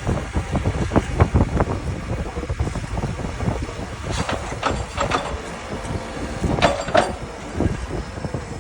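Stone clattering and knocking irregularly over the low rumble of running heavy equipment, with a brief squeal about seven seconds in.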